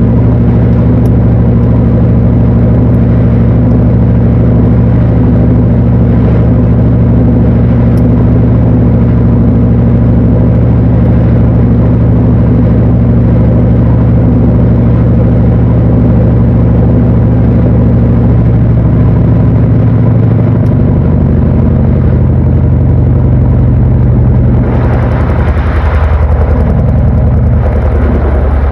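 Panasonic NA-FA80H8 top-loading washing machine running with a loud, steady low hum. The hum shifts slightly about two-thirds of the way through, and near the end a rushing hiss joins it.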